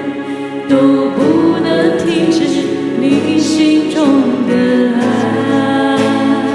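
Chinese Christian worship song playing: instrumental accompaniment with sung vocal lines and held notes between lyric phrases.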